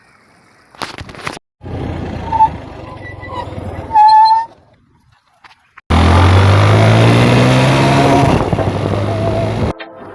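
Motorcycle engine running, then revving with its pitch rising steadily over several seconds. It is heard in short pieces that cut in and out suddenly, with a brief loud tone about four seconds in.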